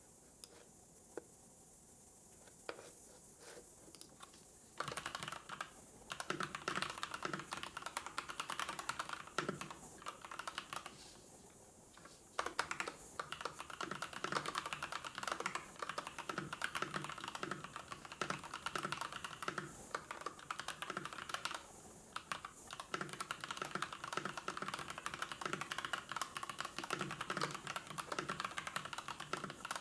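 Typing on a computer keyboard: a few scattered clicks, then steady rapid typing from about five seconds in, with two short pauses.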